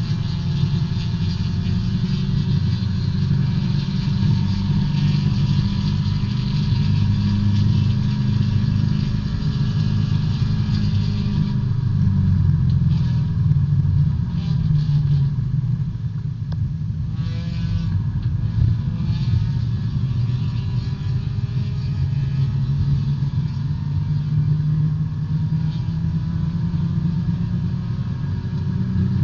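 A small-displacement B-Spec race car's engine running hard under racing load, heard from inside the cockpit, its note rising and dipping through gear changes with a marked dip and rise about seventeen seconds in. A hiss of spray off the wet track is strong for the first dozen seconds, then fades.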